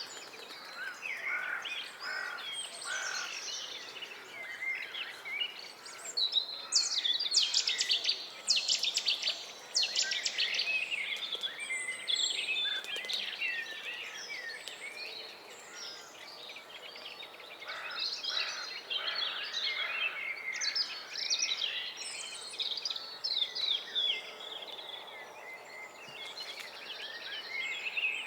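Several small birds singing at once, a busy tangle of trills, chirps and whistled phrases that overlap one another, busiest a quarter of the way in and again past the middle.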